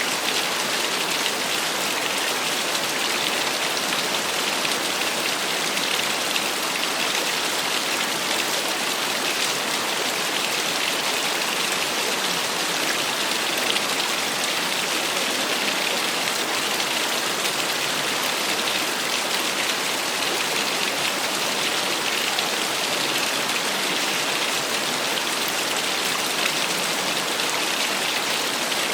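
Small waterfall: water falling and splashing steadily, a constant even hiss that stays the same throughout.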